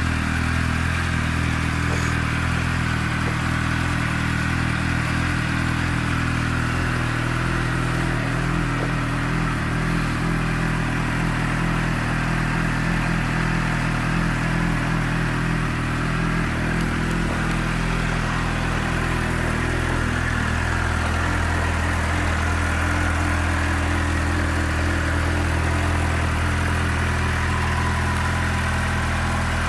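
2006 Suzuki GSX-R600's inline-four engine idling steadily.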